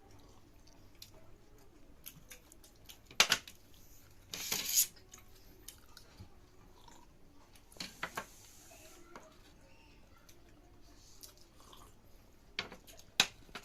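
Eating at the table: quiet chewing with a few sharp clinks of cutlery or dishes, and two short bursts of noise about four and eight seconds in.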